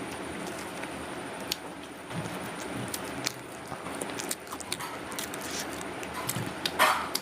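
Close-up mouth sounds of chewing vada pav: scattered short wet clicks and smacks, with a louder crunchy burst near the end, over a steady background hiss.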